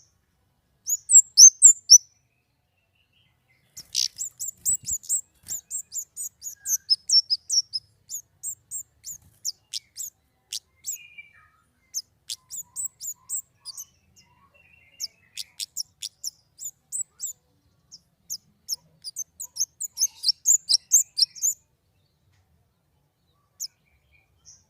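Small songbird singing rapid strings of high, thin chirps and trills, in phrases separated by short silent gaps: a recorded tutor song for training caged songbirds.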